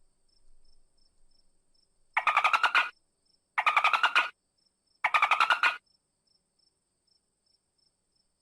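Dolphin calling: three short bursts of rapid pulses, each lasting just under a second, about a second and a half apart.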